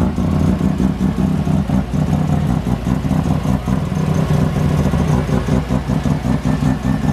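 A loud car rotary engine running close by at a rough, choppy idle, its note broken by rapid, uneven pulses.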